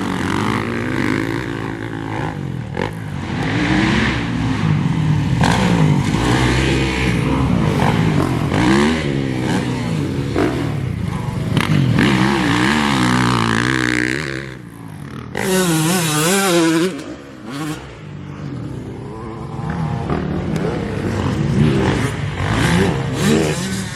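Dirt bike engines revving up and down as motocross bikes ride the track, their pitch repeatedly rising and falling with throttle and gear changes. About two thirds of the way in, one bike is briefly much brighter and higher-pitched, then the level drops for a moment.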